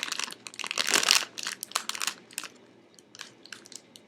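Plastic snack bag crinkling and rice crackers with seaweed crunching, loudest in the first second or so, then thinning to scattered small crackles.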